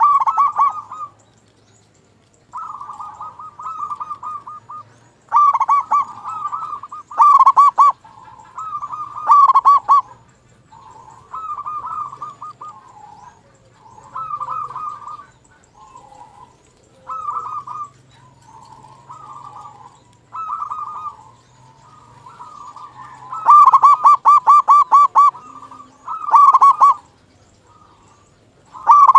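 Zebra dove (perkutut) cooing in repeated phrases of rapid, rolling staccato notes. The loudest phrases come about six to ten seconds in and again near twenty-four seconds in.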